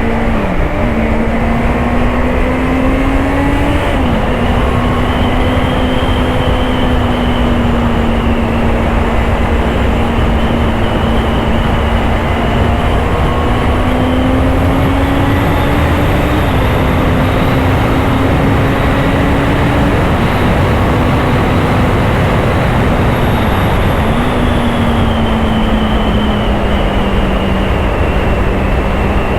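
Honda CBR650R's inline-four engine pulling on the road, its note climbing slowly and dropping sharply several times as the gears change, over a steady rush of wind and road noise.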